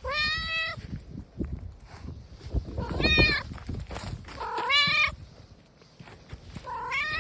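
Brown tabby cat meowing four times, drawn-out 'unyaa' calls about two seconds apart, the later ones rising in pitch at the start.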